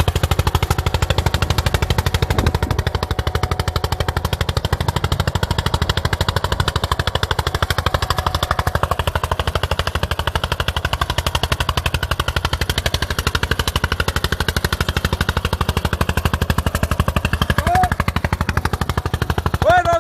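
Diesel engine of a 1981 Eicher tractor running steadily while working with an eight-tine cultivator. It has a fast, even, hard-knocking exhaust beat.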